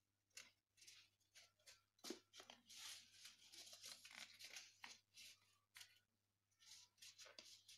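Faint rustling and crinkling of a sheet of paper being folded and creased by hand into an origami flapping bird, in a run of short scratchy bursts.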